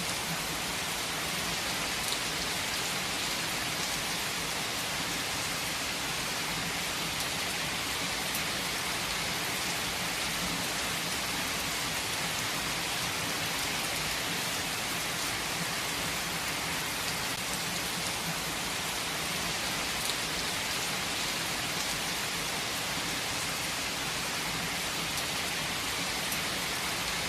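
Heavy rain falling in a steady, even hiss, with a few single drops ticking out of it.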